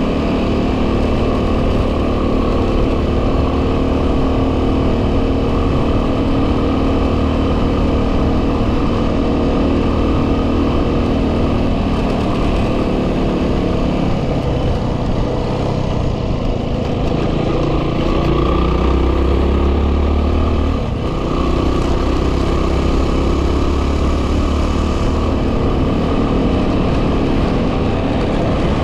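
2010 Yamaha WR250R's single-cylinder 250 cc four-stroke engine running while riding, with wind noise on the microphone. The engine note is steady, shifts in pitch about halfway through, then settles again.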